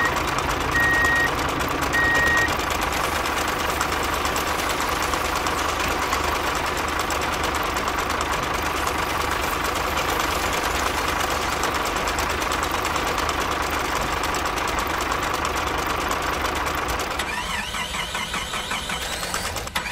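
Small motor of a DIY mini tractor model running steadily with a constant whine, with three short high beeps in the first couple of seconds. The noise thins out about three seconds before the end.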